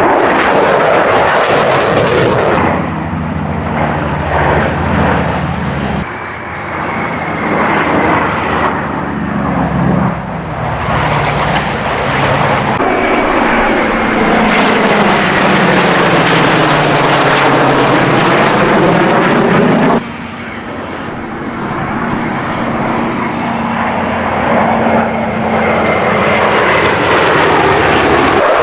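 Airplane engines heard as planes fly past, in several short clips cut one after another. The engine note sweeps in pitch as each plane goes by.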